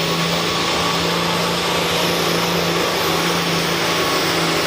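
International 460 pulling tractor's engine running hard under load as it drags a weight-transfer sled, a steady drone that holds one pitch throughout.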